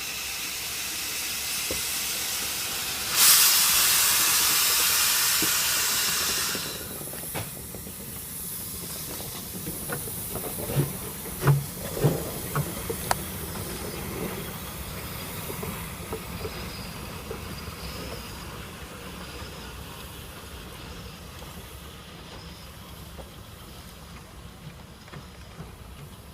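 Commonwealth Railways NM class steam locomotive NM25 hissing steam, with a loud blast of steam for about three seconds that stops suddenly. A few seconds later come several short exhaust chuffs as the engine moves off light, and then the sound fades away.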